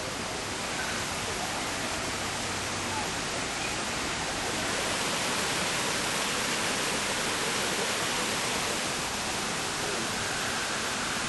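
Steady rushing of water falling in a rainforest-enclosure waterfall, even and unbroken.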